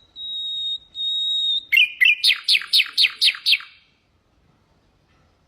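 Common nightingale singing: two long, steady, high whistled notes, then a harsh note and a fast run of about eight descending notes before the phrase stops.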